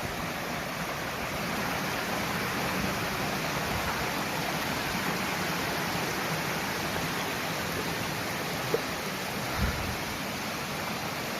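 Steady rushing of falling water from a waterfall close by.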